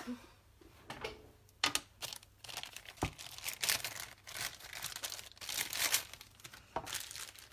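Rummaging through craft supplies: irregular rustling and crinkling, with a few light clicks and a single knock about three seconds in.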